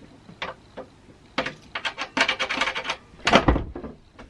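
Metal door hardware on a wooden door clicking and rattling quickly as it is worked, then a heavy thump about three and a half seconds in.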